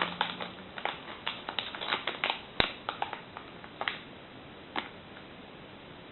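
Small clicks and crinkles of dried mango pieces and their packaging being handled, with one sharper knock about two and a half seconds in; the handling stops after about four seconds.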